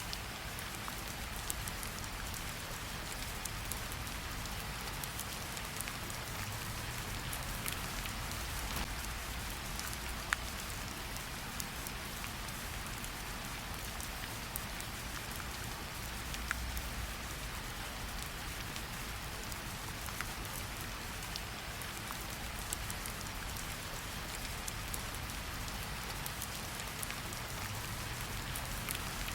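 Gentle rain falling on tree leaves: a steady hiss of rain with scattered single drops ticking sharply now and then.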